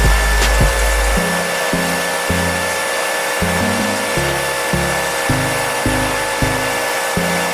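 Background music with a steady beat, over a loud, steady hissing noise from a workshop tool running without pause.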